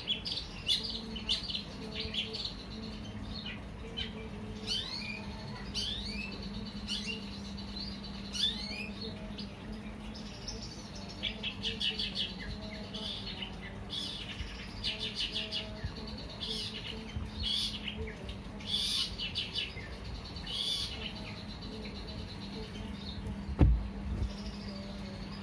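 Long-tailed shrike (cendet) calling with short, high sweeping chirps and bursts of rapid repeated notes, over a faint steady hum. A single thump near the end.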